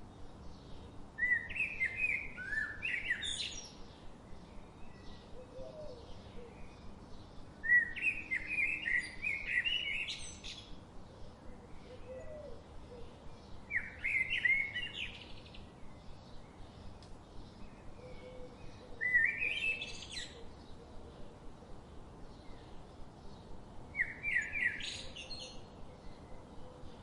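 A songbird singing the same short, rapid phrase five times, about every five to six seconds, each phrase climbing to a high flourish at its end, with faint, steady, quick chirping from other birds in between.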